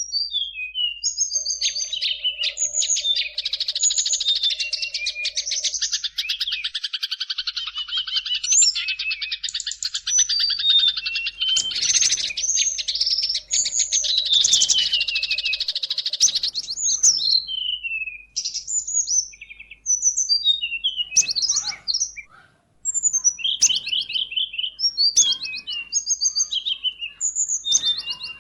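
Small songbirds singing a dense medley of sharp, rapid chirps, whistles and trills. The singing is continuous at first, then breaks into separate quick phrases with short pauses in the second half.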